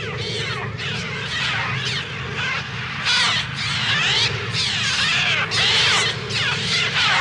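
A massed flock of birds shrieking and cawing, many harsh overlapping cries that rise and fall in pitch, swelling in loud surges from about three seconds in over a steady low hum. These are the film's electronically produced bird cries, made on a Mixtur-Trautonium.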